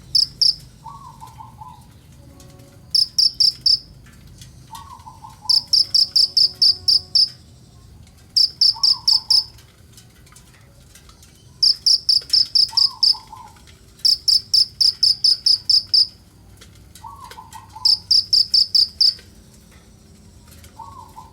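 Kinoi bird calling hard in fast trains of sharp, high notes, from a few to about a dozen at a time, with short pauses between trains. A shorter, lower call recurs about every four seconds.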